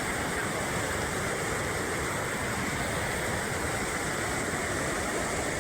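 Steady rush of river water, an even hiss with no breaks or separate events.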